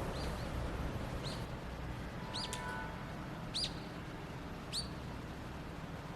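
A bird calling outdoors: a short high chirp repeated five times, about once a second, over a steady low background rumble.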